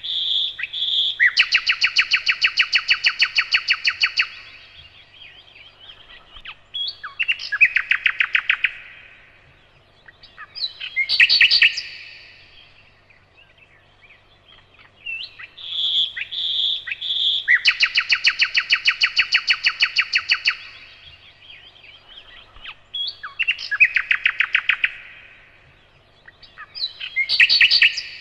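Nightingale singing: short pure whistled notes and loud, fast rattling trills, in phrases a few seconds long with brief pauses between them. The same run of phrases comes round twice.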